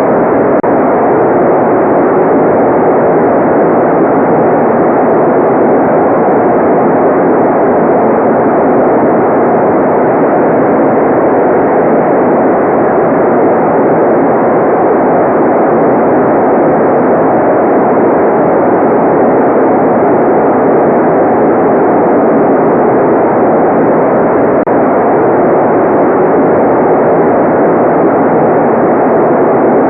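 Continuous generated white noise: a steady, even hiss that never changes, its energy in the middle range with no high treble.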